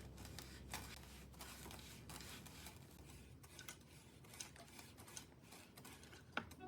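Faint scattered clicks and light rubbing of small parts and tools being handled, with one sharper click near the end.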